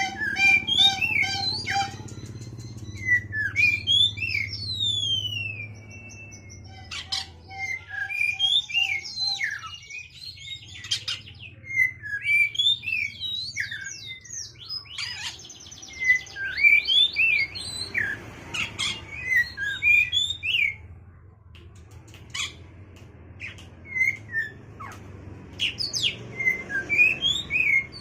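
Oriental magpie-robin (kacer) singing a long, varied song of whistled slides and quick chips. It opens with a fast run of evenly repeated notes and comes in phrases with short breaks. This is its challenge song to a rival, full of mimicked calls (isian).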